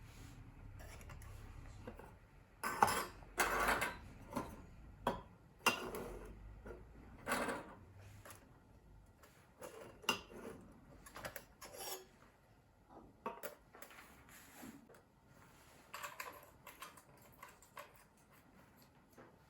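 Thin titanium plates of a small hinged fire pit clinking and clattering as they are handled. A cluster of louder metal clanks comes about three to eight seconds in, followed by lighter, scattered clicks.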